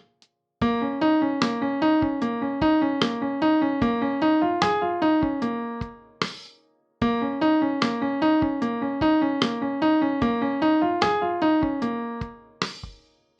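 Keyboard playing a quick run of notes as a gospel riff-and-run vocal exercise pattern, twice, with a short pause between the two phrases.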